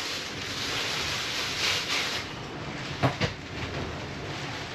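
Steady hiss of heavy rain heard from inside a workshop, with a couple of sharp knocks of parts being handled on the bench a little after three seconds in.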